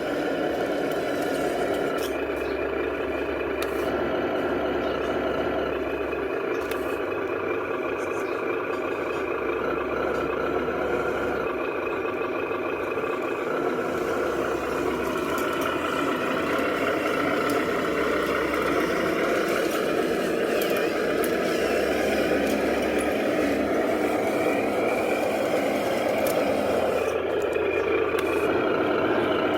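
Remote-control 8x8 truck running: a steady, continuous drive sound whose pitch drifts up and down in the second half as the truck works.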